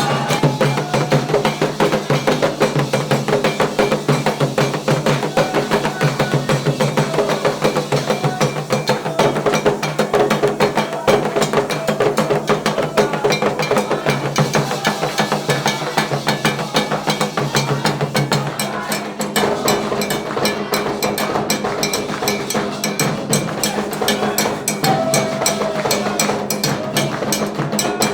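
Candomblé ritual drumming: hand drums played in a fast, steady rhythm with a sharp clacking beat on top.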